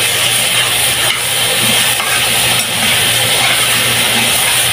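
Diced chicken breast sizzling steadily in hot oil in a metal pot, over a constant low hum.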